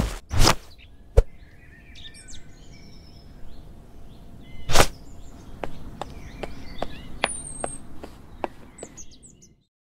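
Impact sound effects: a few sharp hits in the first second, another about a second in, and a loud one near five seconds. Behind them is a bed of bird-chirp ambience, with a run of light clicks in the second half, and the sound cuts off just before the end.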